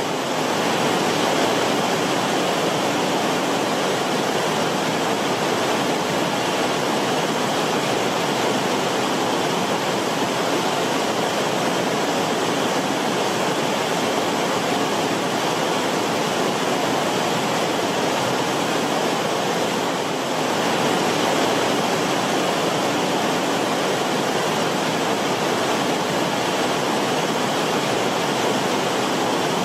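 Creek water rippling and bubbling over rocks in a shallow creek bed, a steady even rush of flowing water.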